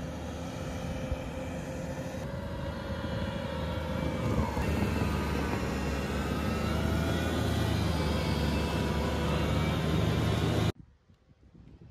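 Skid-steer loader running a CONETEKS 2.13SF hydraulic forestry mulcher attachment: a steady, loud machine drone with a high whine over it, its pitch wavering slightly partway through. The sound cuts off suddenly near the end.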